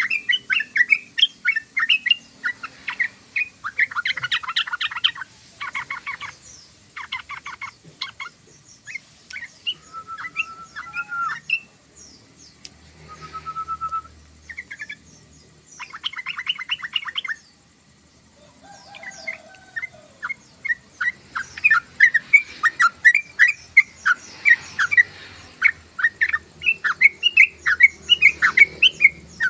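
Yellow-vented bulbul (trucukan) singing a run of quick, bubbly notes, broken by several fast rattling trills in the first half and a few thin sliding whistles near the middle.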